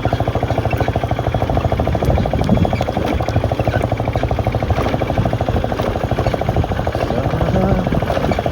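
Yamaha FZS V2's single-cylinder engine running through an aftermarket exhaust while riding, a steady stream of fast, even exhaust pulses.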